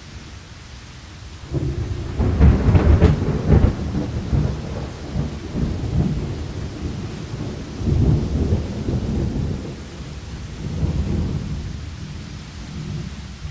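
A thunderclap breaks over steady rain about a second and a half in, cracking sharply at first and then rolling on in low rumbles that swell again twice before dying away.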